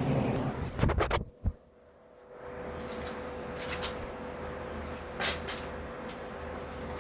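Electric fans running with a steady whir and low hum. A few clattering knocks come about a second in, and the sound drops away briefly before the steady running returns.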